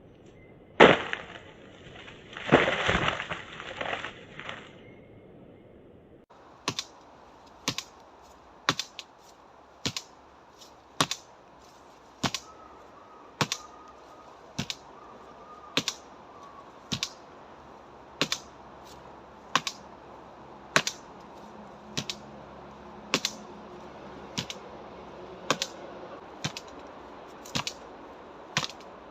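Karate strikes landing on a dry tree trunk. A loud crack about a second in, then a crashing, breaking sound a couple of seconds later; after that, sharp knocks about once a second, evenly paced, over twenty in a row.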